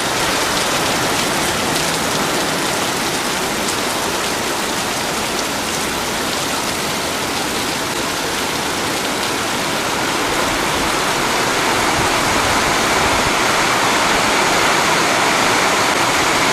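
Torrential rain pouring down as a steady, dense hiss, swelling slightly about twelve seconds in.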